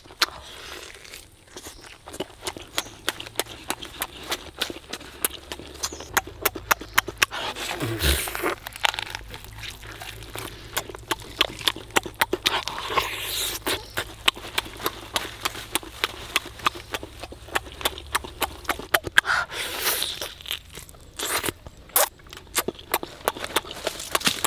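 Close-up eating sounds: wet chewing and lip-smacking as a whole cooked chicken is bitten and torn apart by hand, with many quick clicks and an occasional crunch.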